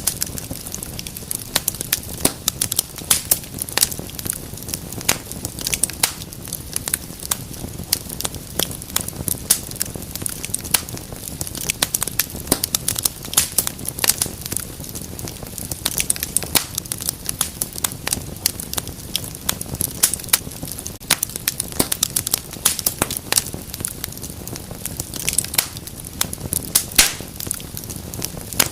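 Wood fire burning in a fireplace, crackling with many quick irregular pops and snaps over a steady low rumble of the flames.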